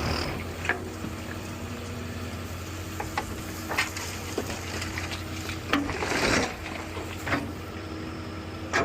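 Diesel engine of heavy demolition equipment running steadily under scattered clicks and crackling of breaking debris, with a longer crunch about six seconds in.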